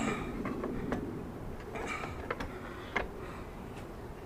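Irregular light clicks and taps, about eight of them, from metal parts and a square being handled while the unplugged saw's blade is adjusted for square.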